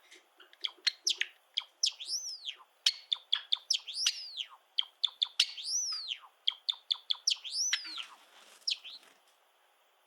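Male Java sparrow singing: a fast run of dry clicks and short chirps woven with several arched notes that rise and fall in pitch, stopping about nine seconds in.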